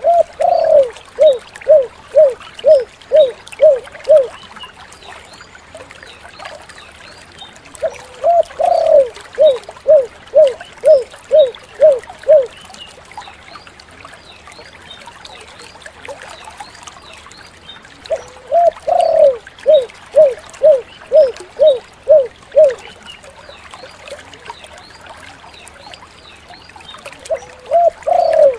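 Spotted dove (tekukur) cooing: each phrase is a longer opening coo followed by a quick run of about seven short 'kuk' notes. The phrase repeats about every nine to ten seconds, three times in full, and a fourth begins at the very end.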